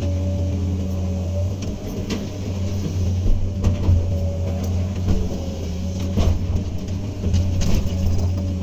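Hydraulic excavator's diesel engine running steadily under work, with a steady whine over it and several sharp knocks and clatters scattered through.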